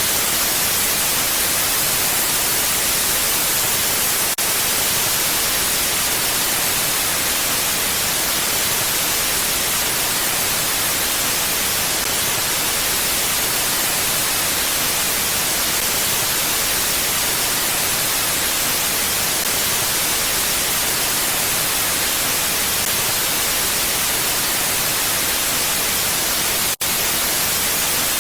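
Steady, even hiss of mountain wind ambience, with no gusting rise or fall, strongest in the high end. It cuts out for a split second near the end, where the recording loops or is spliced.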